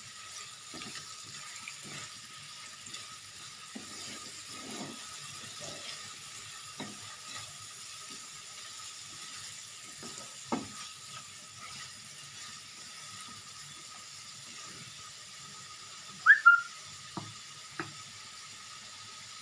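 Blended spice paste with lemongrass and lime and bay leaves sizzling in oil in a nonstick wok, a silicone spatula scraping and knocking against the pan now and then. About three-quarters of the way through come two short, loud, high squeaks close together.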